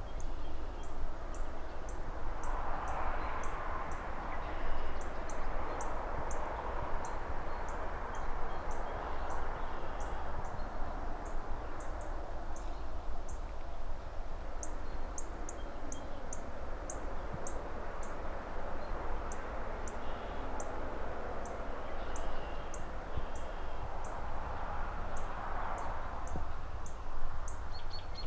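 City ambience: a steady rush of distant traffic and rustling leaves over a low rumble, swelling as something passes about three seconds in and again near the end. Over it, short high chirps repeat about twice a second, with a few fainter bird chirps now and then.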